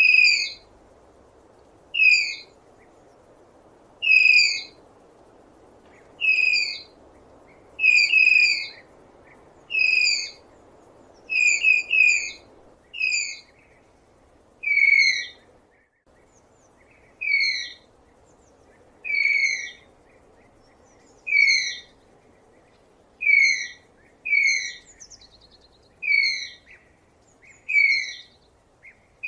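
Tapir giving high-pitched whistling squeals, short calls repeated about every two seconds, a few in quick pairs. A faint, steady background hiss sits beneath them.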